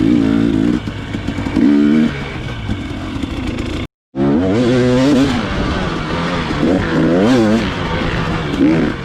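Dirt bike engine on trail riding, revving up and down repeatedly as the throttle is worked. The sound cuts out completely for a moment about four seconds in.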